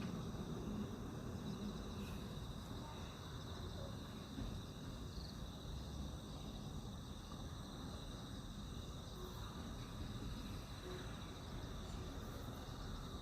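Crickets chirping in a steady high trill over low background noise.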